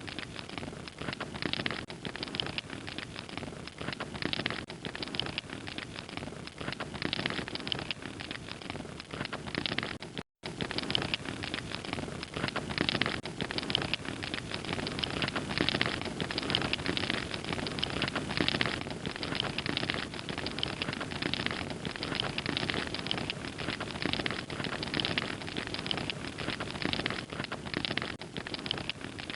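Fire crackling steadily: many small, dense crackles over a soft hiss. The sound drops out completely for an instant about ten seconds in.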